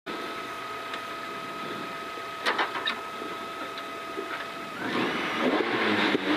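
Honda Civic rally car's engine idling on the start line, with a few sharp clicks about two and a half seconds in; near the five-second mark the revs rise and are held up, the car still stationary, ready for the stage start.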